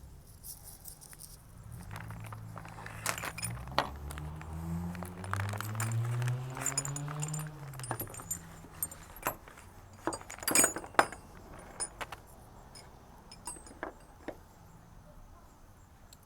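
Packaging and metal faucet repair-kit parts being handled as the kit is opened: a run of clicks, rattles and jangling clinks, the sharpest about ten to eleven seconds in. Under the handling in the middle stretch, a low droning hum rises and then falls in pitch.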